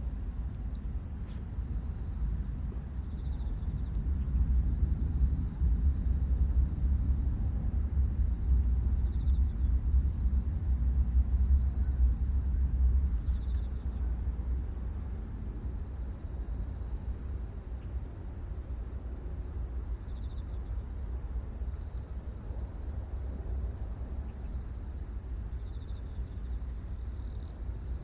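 Grass insects, crickets, calling together: one steady high trill with a lower, pulsing chirp beneath it. A low wind rumble swells for several seconds in the first half, then eases.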